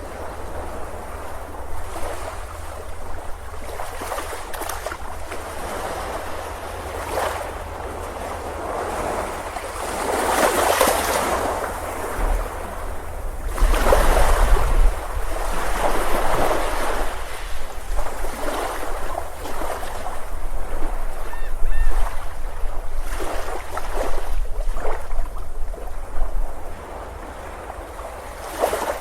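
Ocean surf breaking on a beach, the wash of the waves rising and falling in repeated surges, with a low rumble underneath. The strongest surges come about halfway through and again about three-quarters of the way in.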